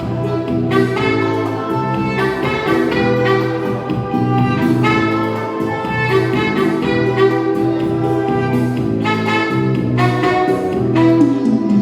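Live dance band playing an instrumental break without singing: a lead melody line over a steady bass.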